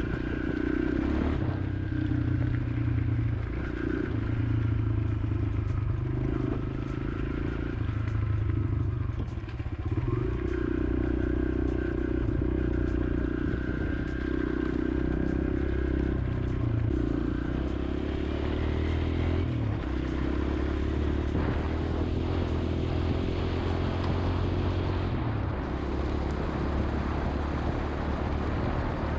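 Kawasaki KLX140L's single-cylinder four-stroke engine running while the bike is ridden, its note stepping up and down every few seconds as the revs rise and fall. It is running well.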